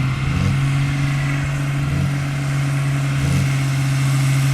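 Tractor engine running with a steady deep drone, rising briefly in pitch every second or two.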